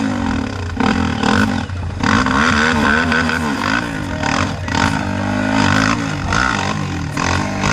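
Dirt bike engine revving up and down repeatedly, the pitch rising and falling over and over.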